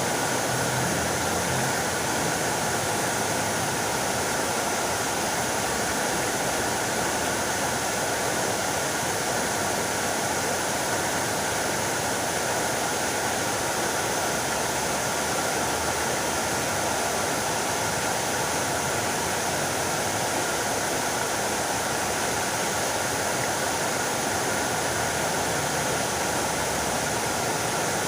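Fountain water splashing steadily, an even rushing spatter that does not change.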